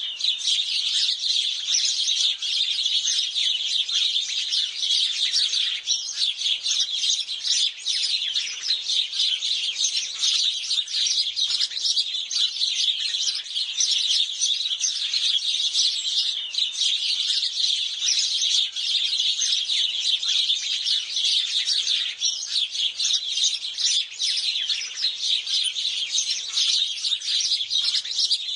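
A flock of house sparrows chirping, many short chirps overlapping without a break.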